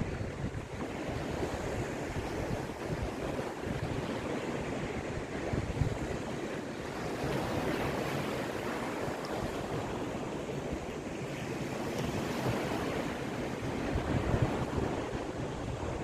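Caspian Sea waves washing onto the shore in a steady rushing wash that swells and eases, with wind buffeting the microphone in low rumbling gusts a few times.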